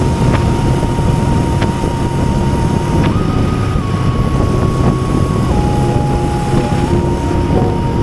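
Honda Rebel 500's parallel-twin engine and road and wind noise while riding, a steady rumble. A faint held musical note over it steps up about three seconds in and down again a little over two seconds later.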